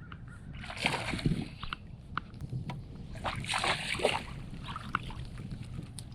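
Water splashing and sloshing at a fishing boat, in two surges, with scattered knocks and clicks.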